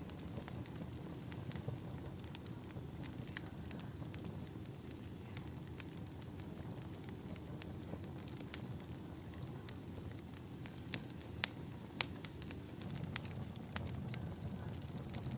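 Wood fire crackling in a fireplace: a steady low rumble of flames with irregular sharp pops and snaps, a few louder ones in the second half.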